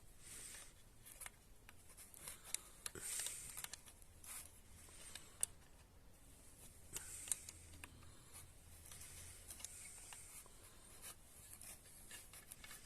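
Faint handling noises of small metal parts being picked up and turned over: scattered light clicks, rubs and scrapes, a few sharper ticks among them.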